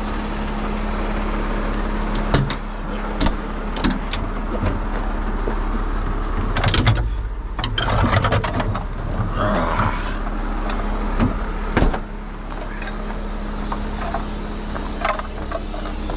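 Heavy truck's diesel engine idling steadily, with several sharp knocks and clanks from rigging being handled, the loudest about 7 and 12 seconds in.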